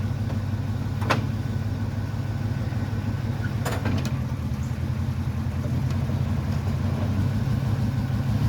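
A vehicle engine idling steadily, with a few short clicks or knocks about a second in and again around four seconds in.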